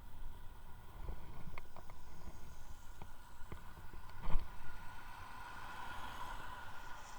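Ride on an electric unicycle: low wind rumble on the microphone under a steady whine from the hub motor, which grows stronger near the end. Several sharp clicks, and one louder knock a little past halfway, as the wheel goes over bumps.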